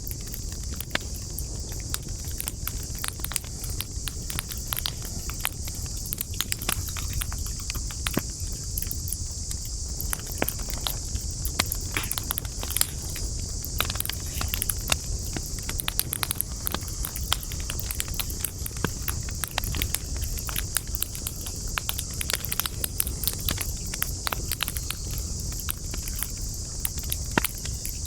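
Wood campfire crackling steadily, with many small irregular pops and snaps over a low rumble of the flames. A steady high-pitched insect chorus, like crickets, runs underneath.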